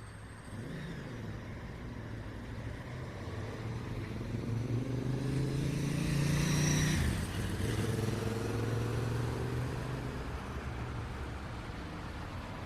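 A car drives past close by in city traffic. Its engine and tyre noise build to a peak a little after halfway, then the engine pitch drops as it goes by, over a steady low hum of traffic.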